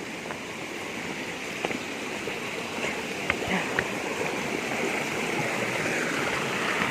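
River water rushing steadily, growing gradually louder.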